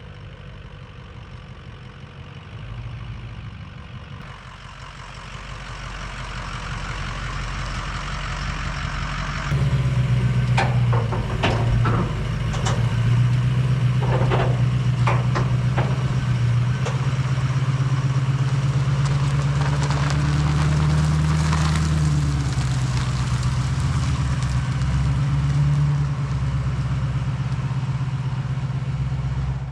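A motor vehicle's engine running. It is faint at first and grows louder, then runs steady and loud from about a third of the way in, with its pitch shifting slightly now and then. Several sharp clicks come soon after it gets loud.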